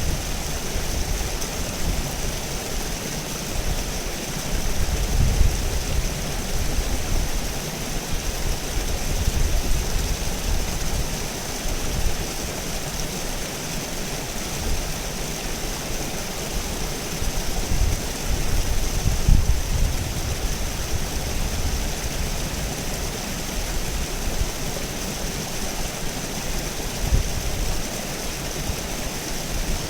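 River water running steadily over rocks, a constant rushing with irregular low rumbling surges underneath.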